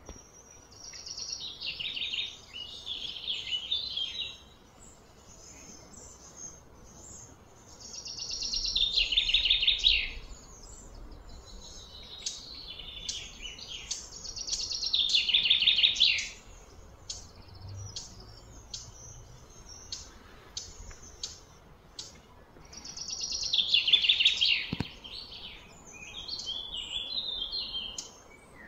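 Bird song: a loud trilled phrase about two seconds long, falling in pitch, sung four times, with short high chirps in between.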